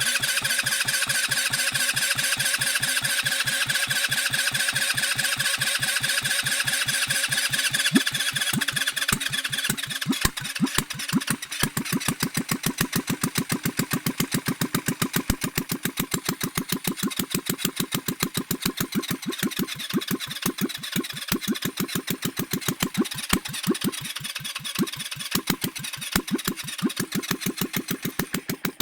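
Rebuilt GY6 four-stroke single-cylinder scooter engine, bored out to 170cc, whining on its electric starter for about ten seconds, then catching and running unevenly on fuel poured straight into the inlet manifold. It cuts out abruptly at the end.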